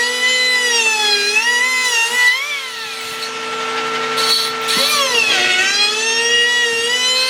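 Electric power tool motor whining as it works wood, its pitch repeatedly sagging under load and recovering.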